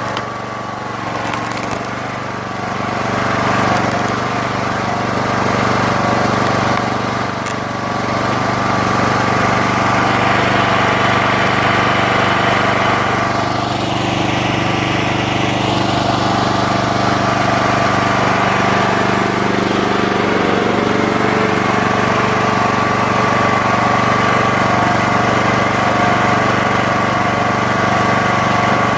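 Engine-driven 40-ton hydraulic log splitter running steadily, with logs creaking and cracking as they are split.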